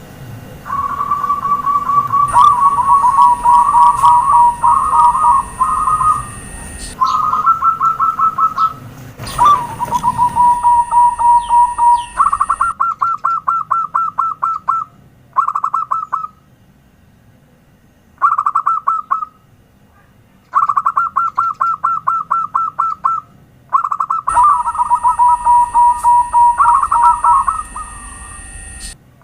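Zebra dove (perkutut) singing: repeated phrases of quick, stuttering coos, each a second or two long, with short pauses between them.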